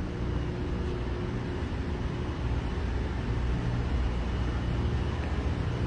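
Steady low drone of a cargo ship's engine-room machinery running: a constant deep hum with a few held tones beneath a broad rushing noise.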